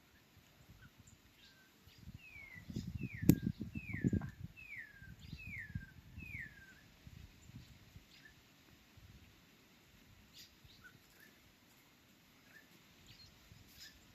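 A bird calling: a series of six clear whistled notes, each sliding downward, about one and a half a second, with faint chirps from other birds around it. Low rumbling and a sharp click near the first notes.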